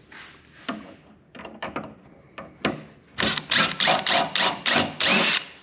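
Hand-tool work on table-saw parts: scattered clicks and knocks, then about halfway in a run of roughly eight loud scraping strokes, about three a second, that stop shortly before the end.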